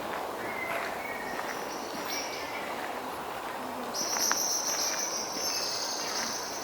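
Outdoor park ambience: a few short bird chirps early on, footsteps on a path, then from about four seconds in a loud, steady, high-pitched insect trill that drowns out the rest.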